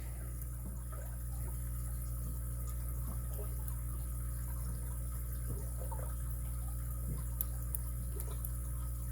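A lock pick working inside a padlock's keyway: faint, scattered ticks and small scrapes. A steady low electrical hum runs under it and is the loudest sound.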